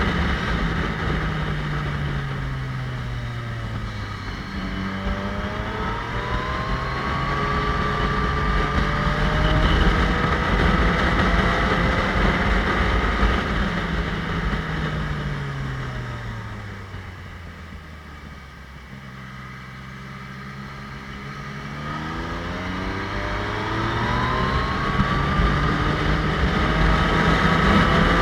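Motorcycle engine riding the pass: its pitch falls and jumps back up a few times as it changes gear, drops to a quieter, lower run about two-thirds of the way through, then rises steadily as it accelerates again.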